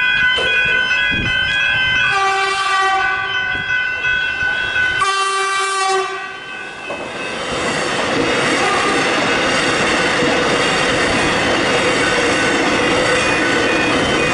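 Level crossing warning bells ringing in a steady alternating pattern while an approaching suburban electric train sounds its horn twice, a long blast then a shorter one. From about halfway in, the train passes over the crossing with steady wheel and rail noise.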